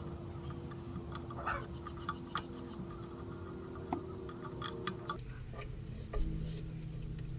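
Scattered light metallic clicks and clinks of hand tools and brake parts being handled, one sharper click about two and a half seconds in, over a steady hum that cuts off about five seconds in.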